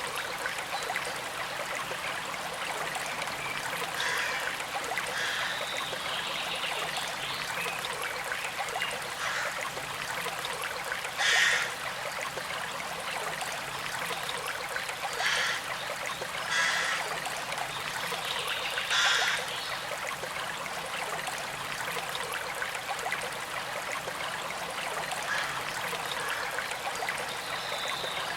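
Shallow stream flowing and trickling steadily over stones, with four brief louder spurts of water partway through.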